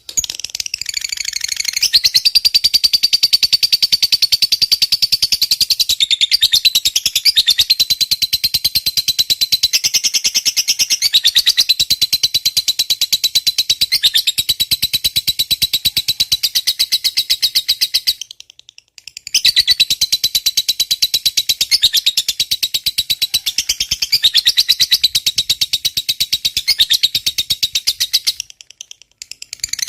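Lovebird's long 'ngekek': a rapid, shrill, unbroken chattering trill held for many seconds at a time, breaking off briefly twice. This is the long ngekek of a lovebird in full song.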